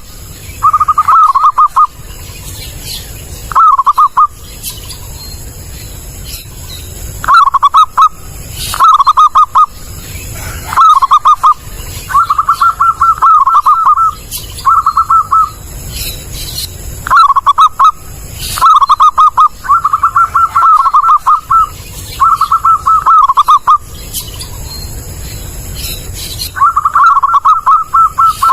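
Zebra dove (perkutut) cooing loudly: about a dozen bouts of quick, stuttering coos on one steady pitch, each half a second to a second and a half long, with pauses of a second or more between them.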